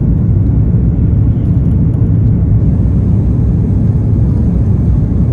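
Airbus A330-300 airliner cabin noise: a steady low rumble of the engines and airflow heard from inside the cabin.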